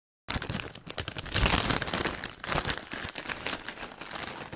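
Foil wrapper of a trading-card pack crinkling and crackling as it is torn open by hand. It starts suddenly a moment in and is loudest about a second and a half in.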